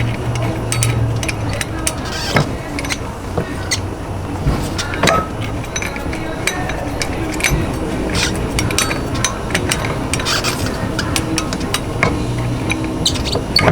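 Metal clinks, taps and scrapes of bolts and hand tools as bolts are fitted on a Vespa scooter's wheel assembly: many scattered sharp ticks at an uneven pace over a steady low hum.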